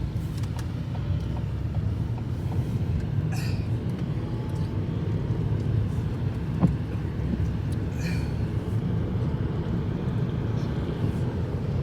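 Steady low rumble of a car's engine and road noise heard from inside the cabin, with two brief swishes a few seconds apart and a single click about two-thirds of the way through.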